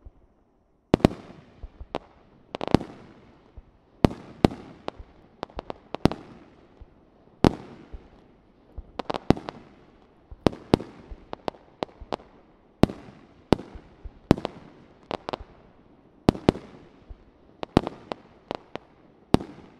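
Aerial fireworks shells bursting in an irregular series of sharp bangs, each followed by a trailing echo, starting about a second in.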